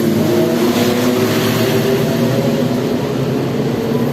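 A motor vehicle engine running, its pitch shifting slightly about half a second in, over a steady hiss of rain.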